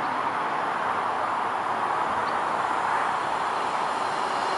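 Class 390 Pendolino electric tilting train approaching: a steady rushing of wheels on rail, swelling slightly as it nears.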